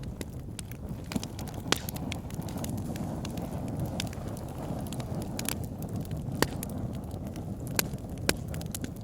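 Wood fire in a log burner crackling, with a steady low rush of flames under frequent small crackles and a few louder pops, one about two seconds in and others near the middle and the end.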